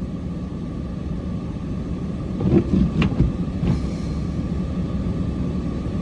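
Cummins diesel truck engine running steadily with a low hum, with a few knocks and one sharp click between about two and a half and four seconds in.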